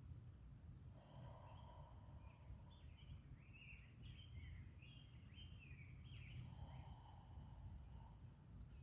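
Quiet outdoor ambience with a steady low rumble, and a songbird chirping a quick run of notes in the middle.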